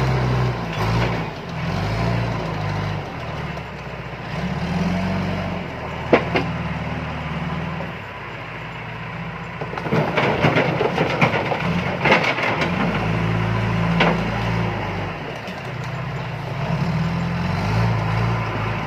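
John Deere 310E backhoe loader's diesel engine working, its pitch rising and falling under load. A sharp knock comes about six seconds in, then a run of clattering knocks in the middle as rock is handled.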